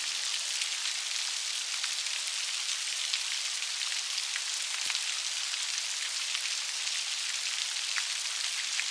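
Steady rain falling: an even high hiss with scattered small drop ticks.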